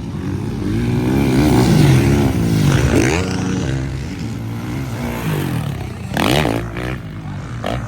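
Several motocross bikes racing past, their engines revving up and down with overlapping pitches and swelling loudest about two seconds in as they go by, then fading, with another brief burst of engine noise near the end.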